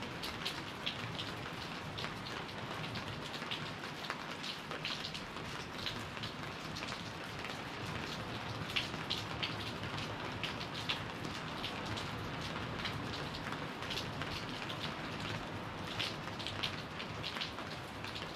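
Steady tropical rain falling: an even hiss with frequent, irregular crisp taps of drops splashing close by.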